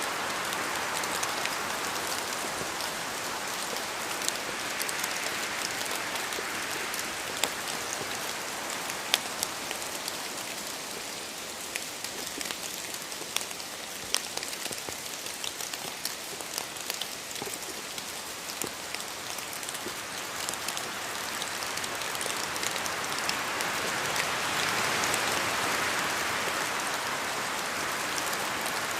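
Steady rain falling, with many distinct drops ticking on a hard surface. It eases a little midway and grows heavier again near the end.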